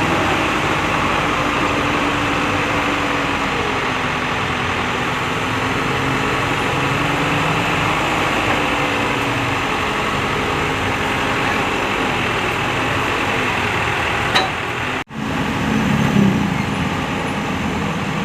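Truck crane's engine running steadily under load, its pitch drifting slightly up and down, with a click and a brief break in the sound about fifteen seconds in.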